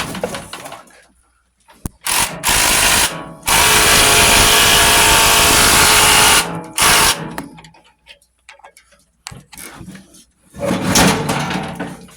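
Impact wrench run on a bolt while the engine is being unbolted from an old lawn tractor: two short bursts, then one long burst of about three seconds and a brief final one. Some knocks and clatter follow near the end.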